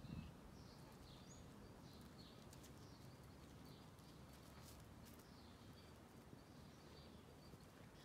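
Faint outdoor quiet with small birds chirping in short, scattered calls.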